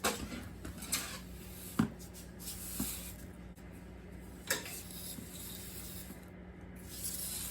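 Irregular rubbing and scraping strokes on a hard surface, with a few light knocks.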